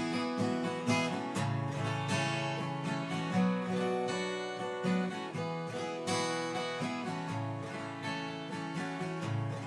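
Country-folk band playing an instrumental break: acoustic guitar strumming under melody notes, some of them held long.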